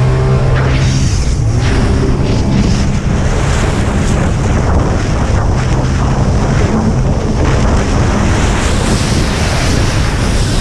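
Jet ski engine running hard at racing speed, with rushing water and wind buffeting the microphone.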